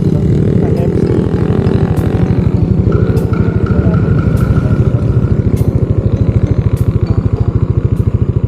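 Vehicle engine running with a rapid, even pulse, holding steady.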